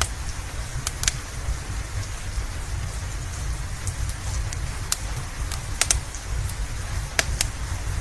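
Steady rain with a low rumble, crossed by scattered sharp pops and snaps of a crackling wood fire, several of them near six and seven seconds in.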